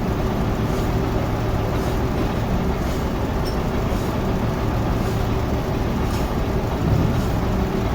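Sawmill machinery running, a steady mechanical drone with a constant hum.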